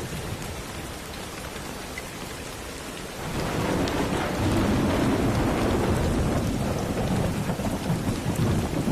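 Steady rain falling, with a roll of thunder that swells about three seconds in and rumbles on, louder, to the end.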